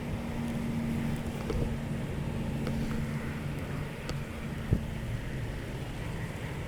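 Honeybees humming steadily around an open hive, under low wind rumble on the microphone, with a single sharp knock about 4.7 seconds in.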